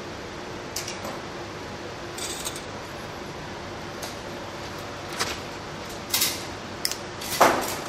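A handful of short, sharp clicks and snips from small tools and wires being handled at the soldering of the cooler plates' wires, over a steady hum; the loudest comes near the end.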